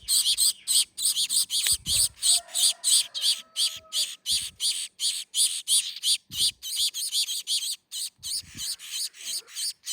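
Gouldian finch chicks giving rapid, high-pitched begging calls, about four or five a second, as they are hand-fed.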